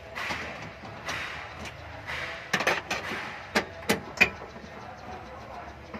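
A run of sharp clicks and knocks through the middle, the last the loudest, after some soft rustling.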